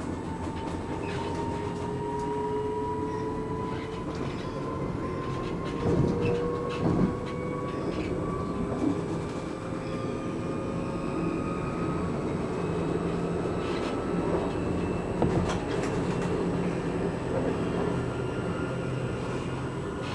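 Electric commuter train running, heard from inside the carriage: a steady rumble with a motor whine that slowly rises in pitch as the train gathers speed. A few knocks from the wheels and rails come about six and seven seconds in, and again near the fifteen-second mark.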